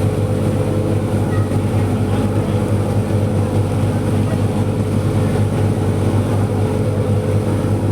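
Passenger ferry's engines running at a steady pace: an even, low drone with a constant hum and a wash of noise over it.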